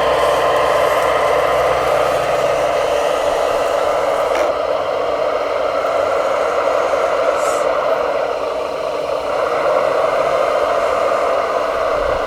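Electric motor and gearing of an RC construction model whirring steadily, with a brief hiss partway through.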